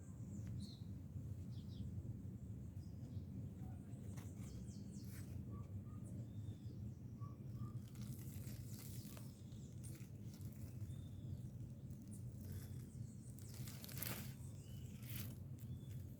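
Birds chirping in short, scattered calls over a steady low rumble, with a few brief crackles.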